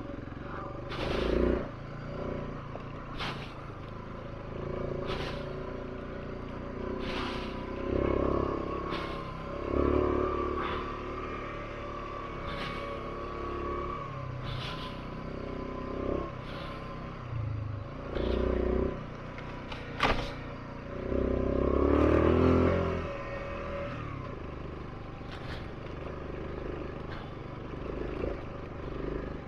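650 cc single-cylinder dual-sport motorcycle engine running under way, with several swells in engine noise as the throttle opens, the longest about three quarters of the way through. Brief sharp knocks recur about every two seconds.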